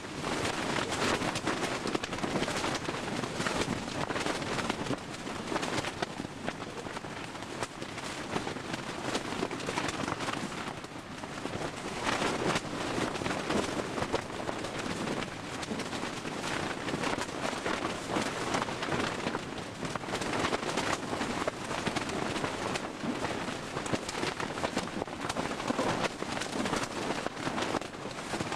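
Heavy rain in a storm, a dense steady hiss that swells and eases every few seconds.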